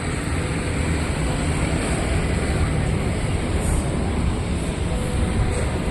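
Steady road traffic noise, a continuous rush of passing vehicles with no distinct events.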